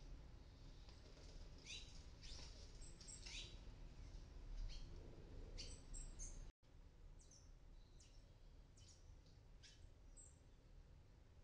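Faint, short high chirps from palm tanagers, repeated at irregular intervals.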